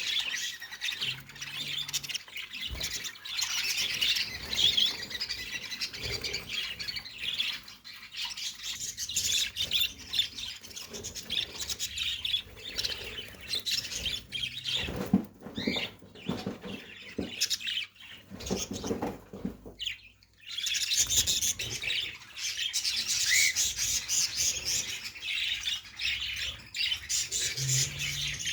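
A group of small birds chirping and twittering continuously, with a brief lull about twenty seconds in.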